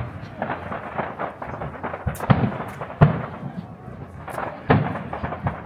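Aerial fireworks shells bursting in a display: an irregular series of sharp bangs, the loudest about three seconds in, with crackling effects between them.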